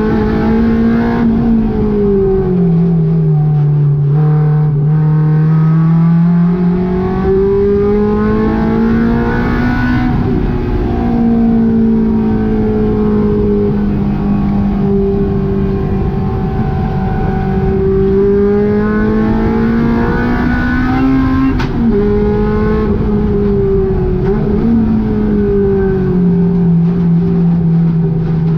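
Honda K20 inline-four engine in a VW GTI running hard on track, its pitch climbing steadily under throttle and falling away several times as the driver shifts or lifts for corners. There is a brief sharp click about two-thirds of the way through.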